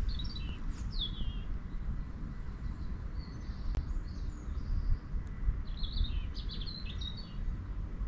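Small songbird calls: a few quick high chirps and a falling trill in the first second, then another burst of chirps from about five and a half to seven seconds in, over a steady low outdoor rumble.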